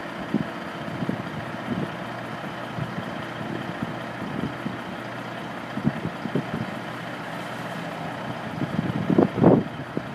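Caterpillar 3406 inline-six diesel in a 1980 Kenworth W900 dump truck, idling steadily. Irregular low buffets, likely wind on the microphone, grow stronger near the end.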